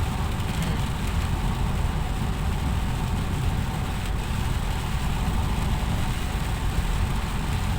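Steady cabin noise of a car driving in rain: a low engine and road rumble with the hiss of rain and spray.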